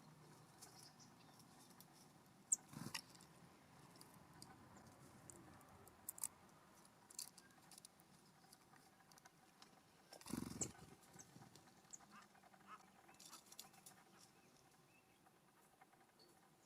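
Birds feeding at a ground feeder close to the microphone: faint, scattered pecking taps and rustles, with a louder rustling thump about ten seconds in.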